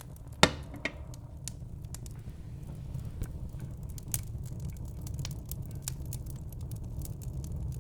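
Wood fire in a fireplace crackling, with a steady low rumble and scattered sharp pops and snaps, the loudest about half a second in and another just before a second in.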